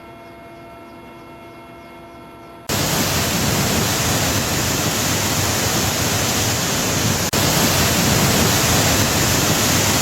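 A low steady hum with several held tones, then, about two and a half seconds in, a sudden switch to loud, steady rushing water that cuts out for an instant about seven seconds in.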